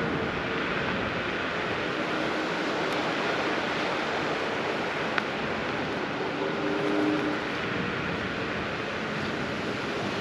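Steady rushing noise of wind and tyres while riding a dual-motor electric scooter on a paved path, with a single sharp click about five seconds in.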